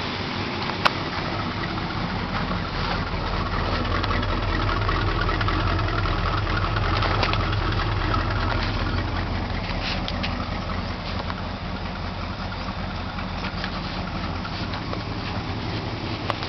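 1968 Dodge Charger's V8 engine idling steadily, growing somewhat louder in the middle before settling back, with one sharp click about a second in.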